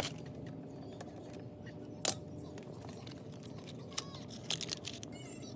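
A few sharp metallic clicks and clinks of small metal parts or hand tools being handled: one loud click about two seconds in, then several lighter ones near the end, over a steady low hum.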